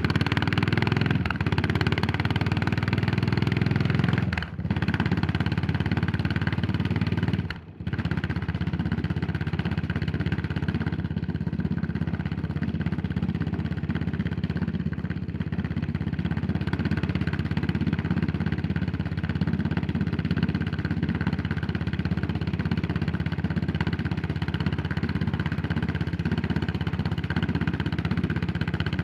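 Yamaha SR400's air-cooled single-cylinder four-stroke engine running under way. The sound dips briefly twice, about four and a half and seven and a half seconds in, then the engine runs steadily.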